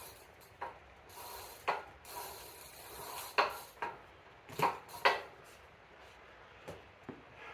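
Scattered sharp clicks and knocks with stretches of rubbing from an e-bike being handled and shifted around during seat-height adjustment.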